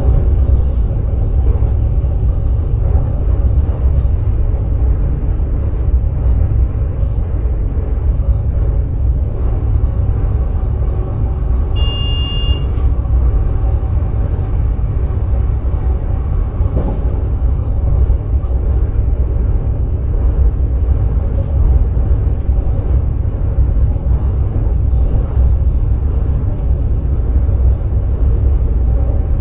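Running noise of a sprinter electric train heard from the driver's cab: a steady low rumble of wheels on track. About twelve seconds in, a short high electronic beep sounds once.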